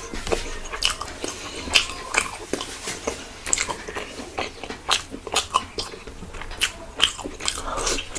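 Close-miked eating sounds: chewing and lip-smacking with many irregular wet mouth clicks. Near the end he bites into a soft, dark, syrup-soaked round sweet.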